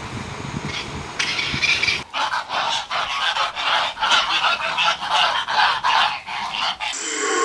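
A low rumble, then about two seconds in a sudden switch to birds calling: a rapid string of short calls, several a second, that stops abruptly near the end.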